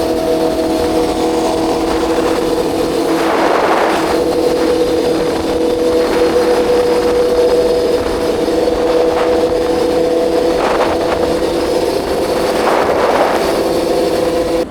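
Aprilia Tuono V4 motorcycle's V4 engine running at a steady cruising note under heavy wind rush. A few brief swells of rushing noise come through, about three seconds in, near eleven seconds, and again near thirteen.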